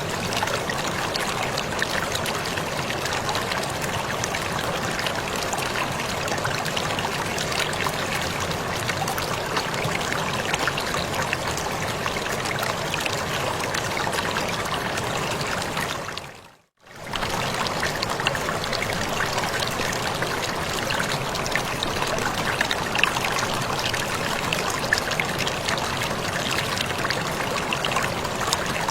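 Waterfall splashing steadily with a dense, even rush of falling water. About two-thirds of the way through it fades out to near silence for under a second, then comes straight back.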